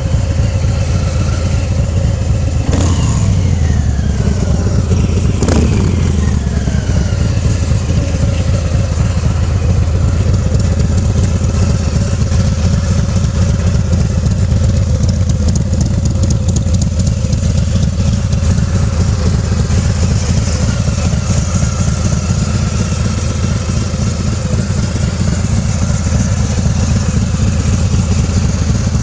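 Harley-Davidson Fat Boy 114's Milwaukee-Eight V-twin idling through 3.5-inch slip-on mufflers with Thundertorque inserts and wrapped baffles. It is blipped twice in the first six seconds, the revs rising sharply and falling back each time, then it settles into a steady idle.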